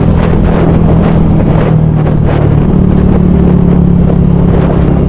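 Yamaha YZF-R125's single-cylinder four-stroke engine running at steady revs through an aftermarket exhaust, its note rising a little about two seconds in.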